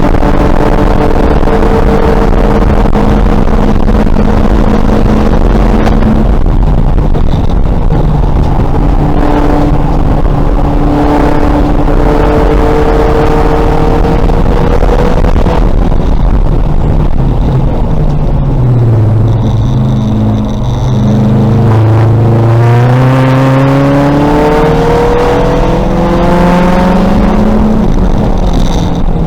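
2000 VW Golf race car's engine running hard at speed: revs climb through the gears with shifts that drop the pitch every several seconds, sit lower for a few seconds around the middle, then climb steadily for several seconds toward the end before another shift.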